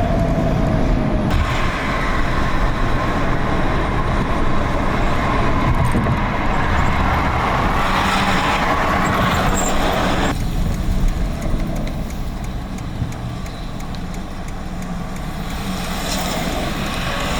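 A road vehicle in motion: a steady rumble of engine and road noise. It is loud for about the first ten seconds, then drops suddenly to a quieter, duller noise.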